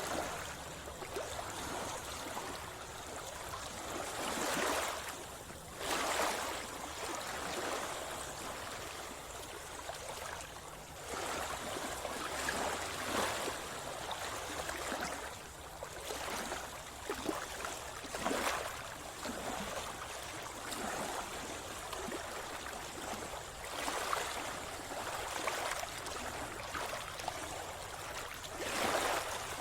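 Sea water sloshing and splashing, with louder surges coming irregularly every few seconds.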